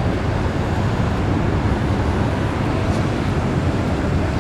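Steady low rumble of jet airliner engines, even in level throughout with no distinct events.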